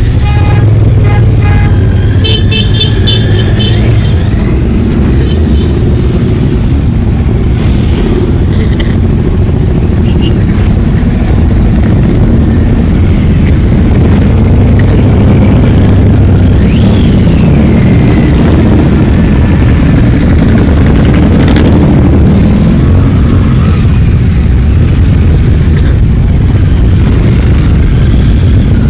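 A stream of motorcycles riding past, their engines running loud and continuous with revs rising and falling, and a quick run of short high beeps about two seconds in.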